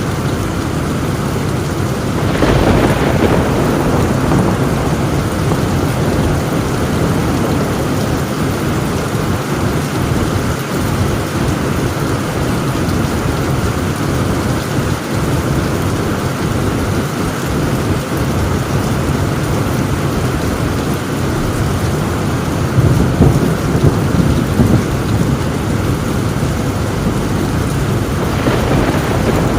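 Heavy rain falling steadily on a tin roof, with thunder: a sharp crack about two and a half seconds in, a low rumble roughly three-quarters of the way through, and another crack near the end.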